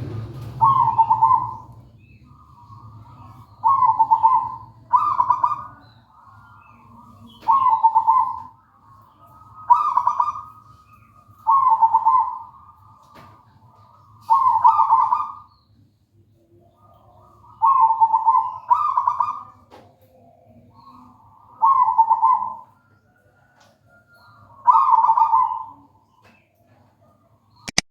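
Zebra dove (perkutut) cooing: about eleven short, rolling coo phrases repeated every two seconds or so. A sharp click comes right at the end.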